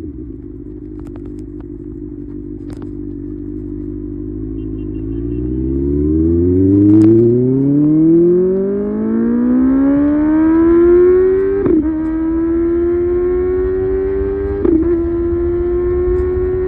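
Kawasaki ZX-6R's inline-four engine running at a steady pitch, then rising for about six seconds as the bike accelerates. It then holds a high steady note with two brief dips near the end.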